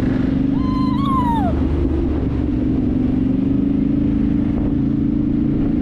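Dirt bike engine running steadily at cruising speed, heard from the rider's own bike. About a second in, a short high cry rises and falls over the engine.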